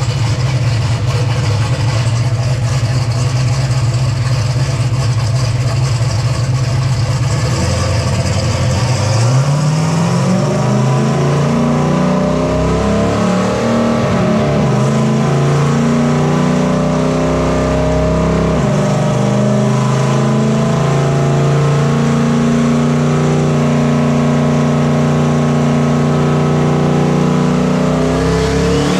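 Turbocharged Gen V LT V8 in a Silverado truck running on a chassis dyno. It holds a steady low speed at first, then revs climb about nine seconds in, with two drops in pitch like gear shifts, before it settles into a steady higher cruise as it is brought up for a dyno pull.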